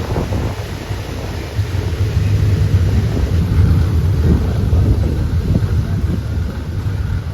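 Low rumble of a moving vehicle with wind buffeting the microphone, swelling louder a couple of seconds in.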